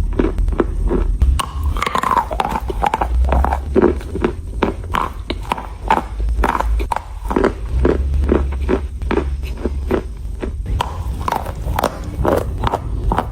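Close-up crunching of chalk being bitten and chewed: a dense run of crisp crunches and cracks with a low rumble underneath.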